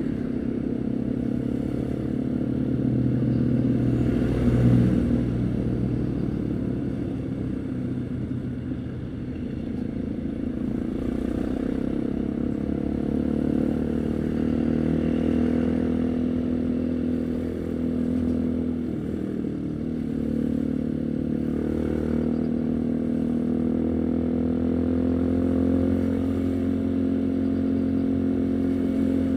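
Haojue NK150 single-cylinder four-stroke motorcycle engine running under way, heard from the rider's position. Its pitch drifts up and down with speed, with a louder stretch about four seconds in, a brief dip past the middle and a slow climb near the end.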